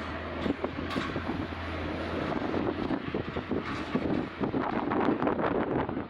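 Gusty strong wind buffeting the microphone over the steady rumble of a jet airliner's engines on approach.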